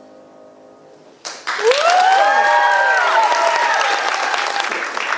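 The last piano note dies away, then about a second in the audience breaks into loud applause with cheering and whoops.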